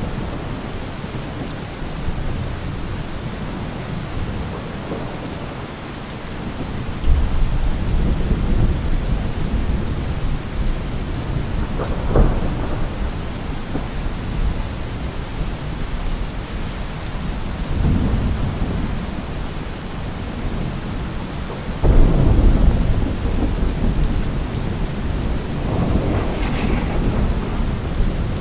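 Thunderstorm: steady rain with several low rolls of thunder, and a sudden loud thunderclap about three-quarters of the way in.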